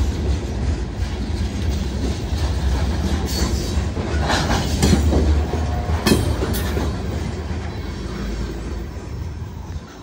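Wheeling & Lake Erie freight train of open-top hopper cars rolling past close by: a steady low rumble of steel wheels on rail with clickety-clack and several sharp metallic clanks. The sound fades near the end as the last car goes by.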